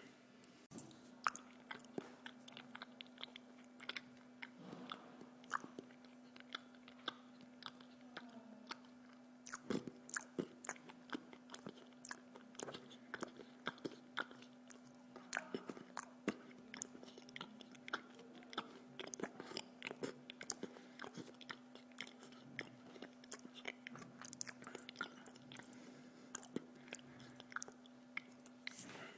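A person chewing food close to the microphone: irregular small wet clicks and crunches of the mouth and teeth, with a steady low hum underneath.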